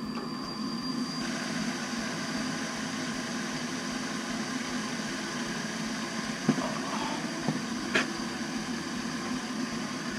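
Navien NCB-240 combi boiler running steadily on a domestic hot water demand, a quiet hum and rush from its newly replaced circulator pump and burner fan. A few light clicks come about six and eight seconds in.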